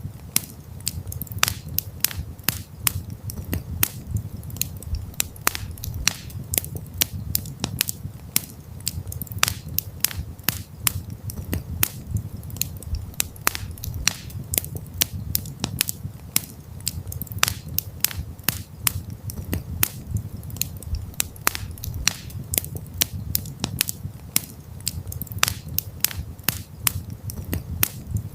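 Wood campfire crackling and popping, with many irregular sharp snaps each second over a steady low rumble of the burning fire.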